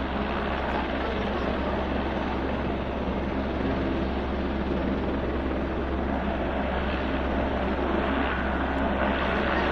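Helicopter running close by: a steady rotor and turbine noise that grows slightly louder over the last few seconds.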